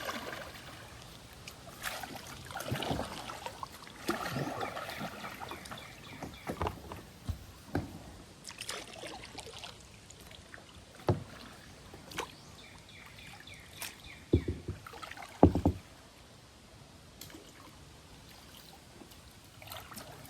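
Kayak being paddled: uneven paddle strokes swishing and splashing in the water, with scattered sharp knocks, the loudest about three quarters of the way through.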